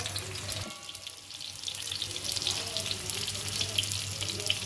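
Sliced onions and cumin seeds sizzling and crackling in hot oil in a pan. The sizzle dips briefly about a second in and then picks up again.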